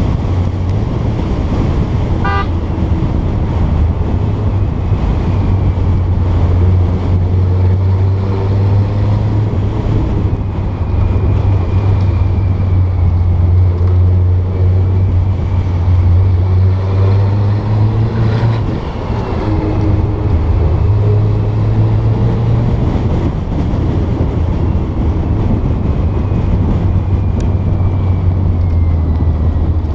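Porsche 912's air-cooled flat-four engine running steadily under way, its pitch shifting a few times, with a dip in level about eighteen seconds in. A brief high tone sounds about two seconds in.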